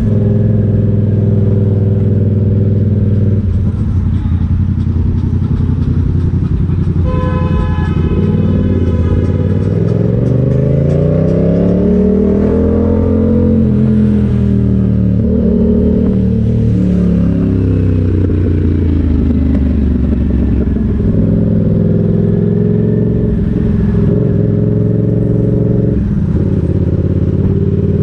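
Motorcycle engine running steadily, then revving up and back down about ten to fifteen seconds in. A brief steady tone, like a horn, sounds around seven seconds in.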